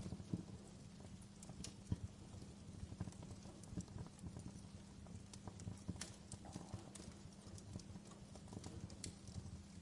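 Wood fire crackling: irregular sharp snaps and pops over a low steady rumble, with one louder pop about two seconds in.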